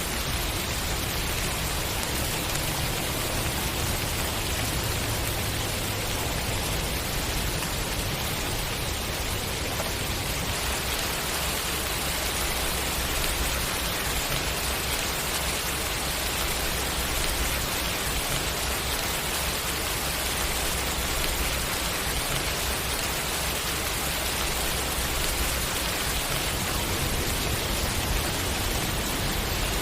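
Steady, continuous rainfall: an even hiss of rain with no breaks or single louder events.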